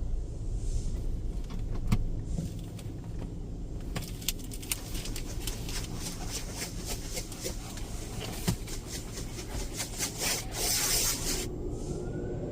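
Automatic MCWW tunnel car wash heard from inside the car: a low steady rumble under cloth washers rubbing and water spattering on the body. A dense patter of hits starts about four seconds in, and a loud burst of spray hisses near the end.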